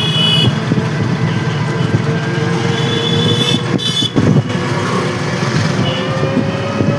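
Heavy road-traffic noise from a moving vehicle, with short horn toots at the start and again a few seconds in, and a steady whine slowly rising in pitch over the second half.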